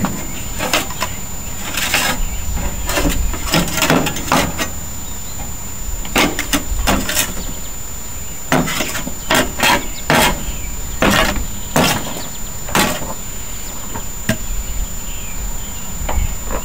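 Irregular knocks and clanks, some in quick runs and some spaced out: hand work on metal mower parts, with hammer-like blows.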